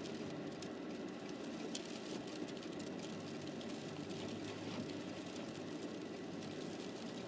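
Car running, heard from inside the cabin: a steady low hum from the engine and cabin fans.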